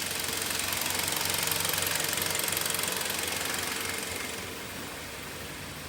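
Kia Sorento's G4KE four-cylinder petrol engine idling with a fast, even pulsing. It is a little louder in the middle and fades near the end.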